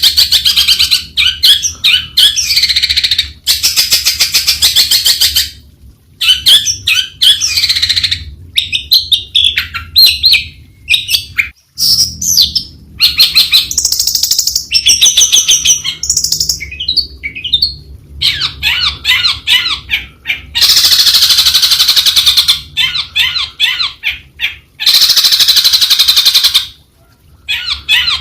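Long-tailed shrike singing: a loud, varied song of rapid chattering and whistled notes in phrases broken by short pauses, with longer runs of fast chatter near the end.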